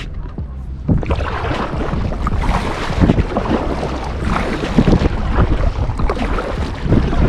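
Water splashing around an inflatable kayak as it is paddled along while trolling, with wind buffeting the microphone, rising about a second in.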